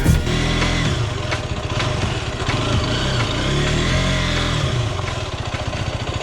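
Derbi Terra 125 motorcycle's single-cylinder engine running, revved up and down twice, then settling to a steady idle near the end.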